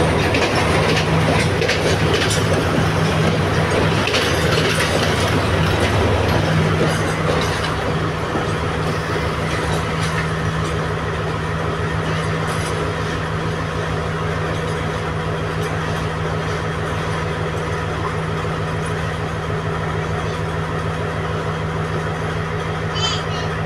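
Diesel passenger train's coaches rolling past at close range, wheels clicking over the rail joints. The clicking fades after about seven seconds, leaving a steady diesel engine hum, with a brief high squeak near the end.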